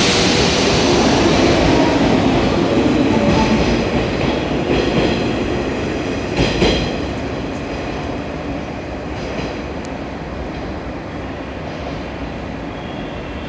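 JR West 117 series electric train pulling out of the station and running past, its wheels clacking over the rail joints in a cluster of sharp knocks midway, the running noise fading as the train draws away.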